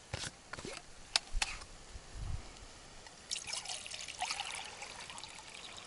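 Water poured into a mug for tea: a short trickle with gurgles in the middle, after a few light clicks and knocks of handling.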